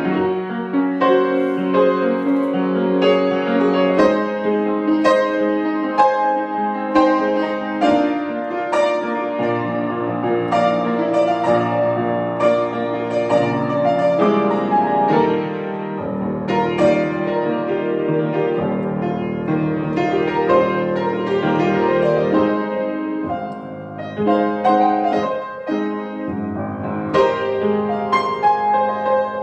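Solo piano improvisation: chords and melody notes struck one after another in a slow, flowing line, easing a little softer about three quarters of the way through.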